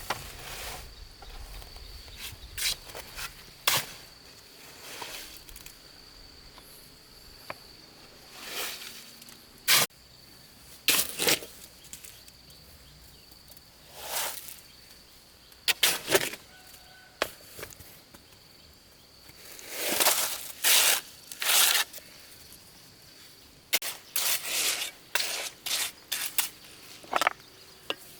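Irregular knocks, scrapes and crunches from manual outdoor work, a second or more apart and bunched more densely in the second half, over a steady high-pitched insect buzz.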